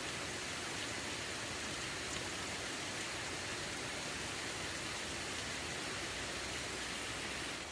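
Steady hissing noise with a few faint ticks.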